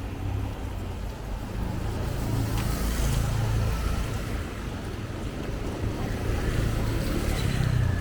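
Street traffic: a low rumble of passing vehicles that swells about three seconds in and again near the end.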